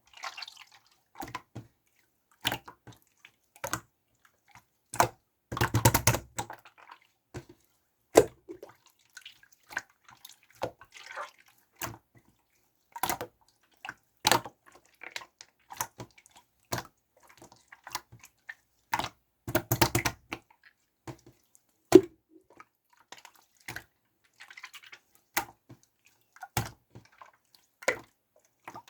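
Clear pink slime being worked by hand, giving irregular sticky clicks and wet pops, with a denser squelching run about six seconds in and again near twenty seconds.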